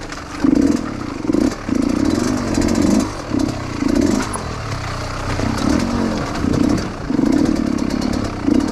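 Dirt bike engine revving in repeated short bursts as the throttle is opened and closed, with clattering throughout.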